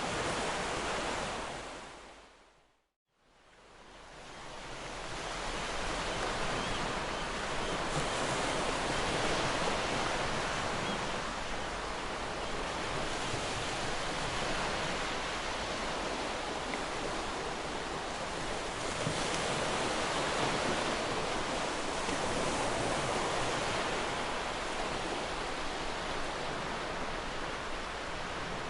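Ocean surf washing in, a continuous rush of waves that swells and eases slowly. About three seconds in, the sound fades out to silence and then fades back up over a few seconds.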